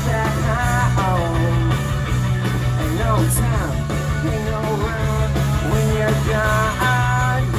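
Live rock band playing a song, with pitched lines bending and sliding over a steady bass.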